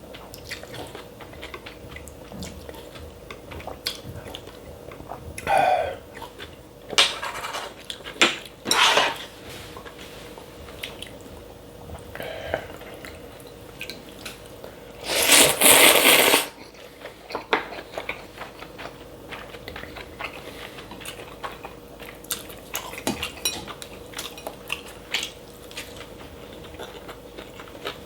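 Close-miked eating sounds of cold buckwheat noodles: several loud slurps of the noodles, the longest lasting over a second about halfway through, with chopsticks clicking against the bowl and chewing in between.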